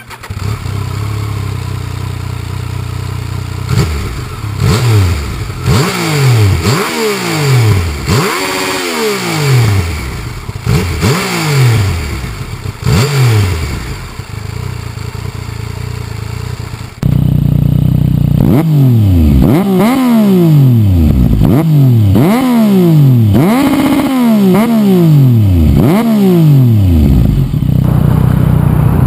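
Yamaha FZ-09's inline three-cylinder engine, warm, idling and then revved in repeated quick throttle blips, each rise falling back to idle. About seventeen seconds in the sound cuts abruptly to a louder recording of the same kind of idle and revs. This is the comparison between the stock exhaust and the carbon Akrapovic exhaust.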